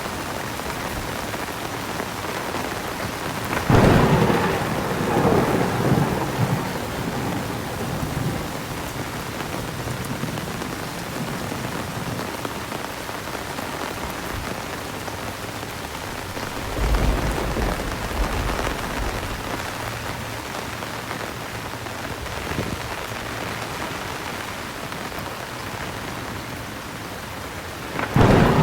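Steady heavy rain with thunder: a sharp crack of thunder about four seconds in rolls on for a couple of seconds, a lower rumble swells up after halfway, and another sharp crack strikes near the end.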